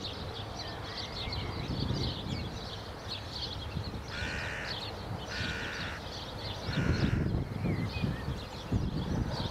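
A bird giving three harsh caws, each about half a second long and a little over a second apart, starting about four seconds in, over a steady background of fine high-pitched chirping. Low rumbles come and go in the second half.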